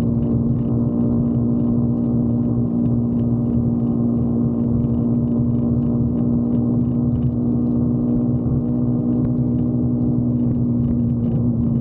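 Motorcycle engine running steadily at an even speed, a constant drone that holds one pitch throughout.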